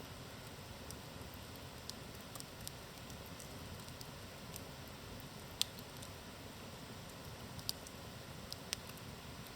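Wood campfire burning with a faint steady low rustle and scattered sharp crackles and pops. The loudest pop comes a little past halfway, with a few more near the end.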